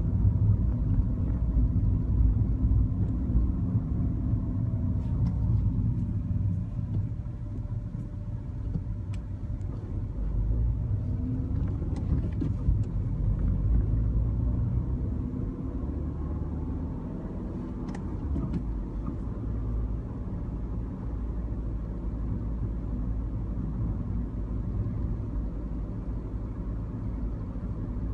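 Mini Cooper with manual transmission being driven: a steady low engine and road rumble, with faint whining tones that glide up and down as the speed changes.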